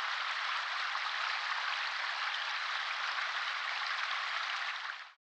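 A steady, even hiss with no clear strikes or tones, cutting off abruptly about five seconds in.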